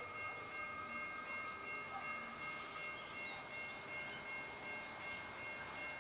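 Faint rumble of a distant freight train, led by SCT locomotives, approaching and growing a little from about halfway through. Several steady high ringing tones run over it throughout.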